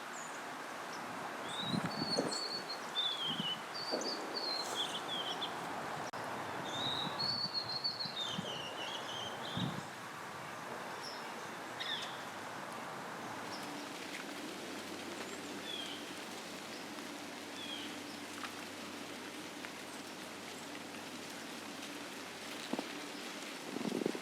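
Small birds singing in warbled, rising-and-falling phrases for the first several seconds, then giving only scattered short chirps, over outdoor background noise. A few soft knocks sound early on, and a low steady hum comes in about halfway through.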